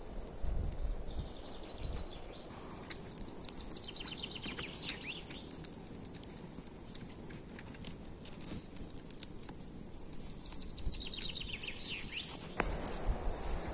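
Small birds chirping in quick high trills, one burst about four seconds in and another near the end, over low outdoor rumble with scattered sharp clicks.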